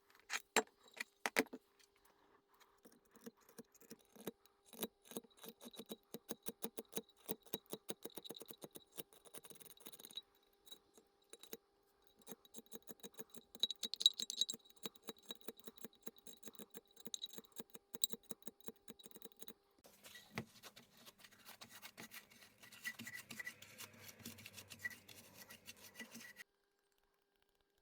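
Light metallic clicks and clinks in quick irregular runs, as of tools and small metal parts being handled, over a faint steady hum. About twenty seconds in, this changes to a denser scraping-like noise that stops shortly before the end.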